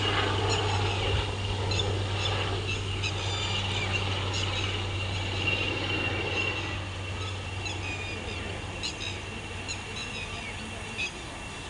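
Birds calling in short, repeated chirps over a steady low hum and a steady high thin tone.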